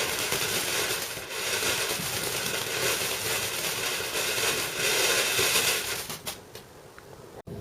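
Firework crackling with a dense fizz, dying away about six seconds in.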